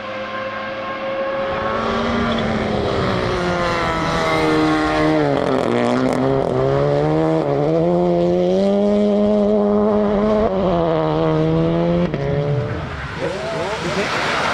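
Rally car engine revving hard on a stage, its note rising and falling with the gear changes: a sharp drop about five seconds in, climbing again, then falling away near the end.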